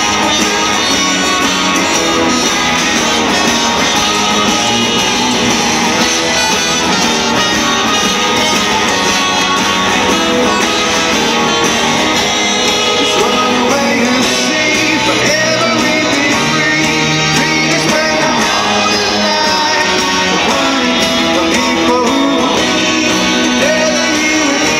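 Rock band playing live in an arena: guitars strummed over a full band, with singing.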